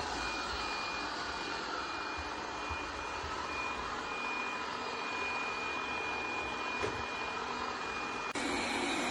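Robot vacuum cleaner running: a steady suction-fan rush with a thin high whine. Near the end the whine drops out and the rush turns louder.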